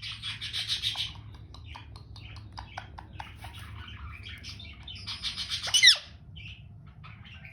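Indian ringneck parrot chattering and squawking: a harsh squawk at the start, then a run of short chirps and clicks, and a loud, sharp falling screech just before the sixth second.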